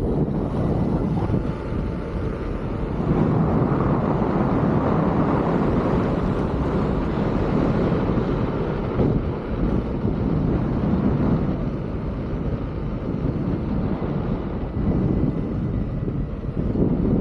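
Wind rushing over the camera microphone while riding an electric unicycle, a steady rumbling noise that swells and eases.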